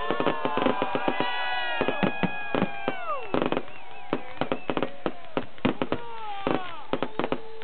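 Fireworks going off in rapid succession: a dense run of sharp bangs and crackles, several a second, with whistling tones that glide down in pitch, most of them in the first half.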